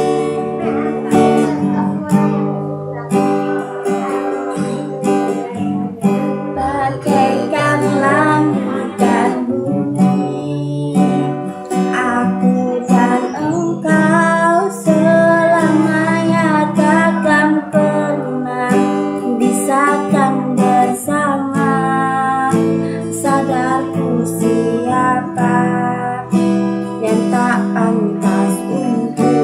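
Acoustic guitar being strummed and picked, playing continuous chords, with a wavering melody line over it through the middle.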